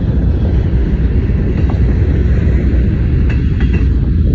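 CSX freight train of covered hopper cars rolling past, a loud steady rumble of wheels on rail, with a few brief high-pitched tones about three seconds in.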